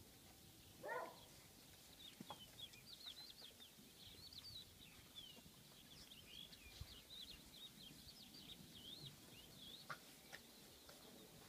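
Faint chirping of small birds, a quick run of short high twittering calls that goes on for most of the time, with one brief lower squawk about a second in.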